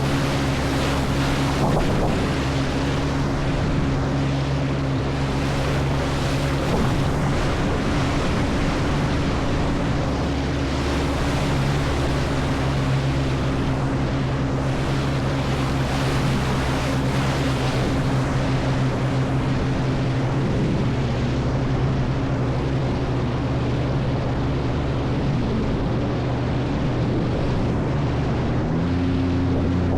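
Jet ski engine running steadily at speed, with water rushing and wind buffeting the microphone. The engine note shifts near the end.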